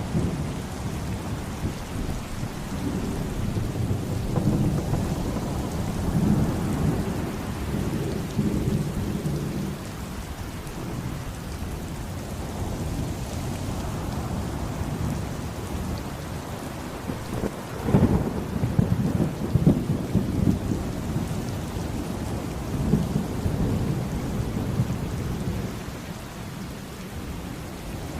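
Steady heavy rain with rolling thunder rumbling underneath. About two-thirds of the way through, a sharp, loud thunderclap cracks and rumbles on for a couple of seconds.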